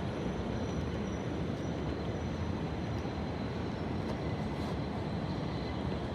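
New York City subway 7 train, an R188, running at a steady speed: an even rumble of wheels and track, with a faint high whine over it.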